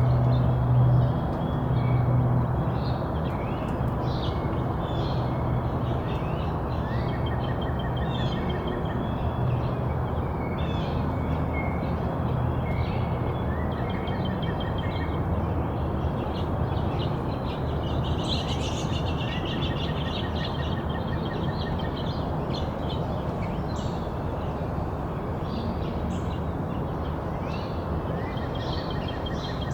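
Small songbirds chirping and trilling in repeated short calls, over a steady wash of outdoor background noise. A low hum fades out in the first couple of seconds.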